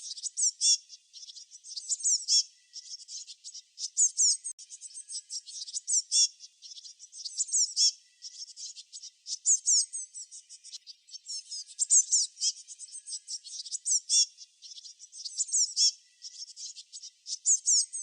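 Songbirds chirping in quick high-pitched phrases that repeat about every two seconds, over a steady fast trill.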